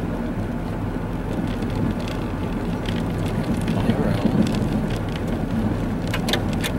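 Car interior while driving on a snow-covered road: steady engine hum and tyre and road noise, with a few sharp ticks near the end.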